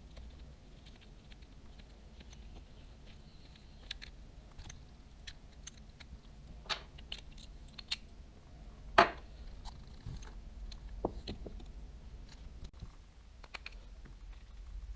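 Scattered light clicks and small knocks of the parts of a Daiwa Tatula 100 TWS baitcasting reel and small tools being handled during disassembly, with one sharper click about nine seconds in.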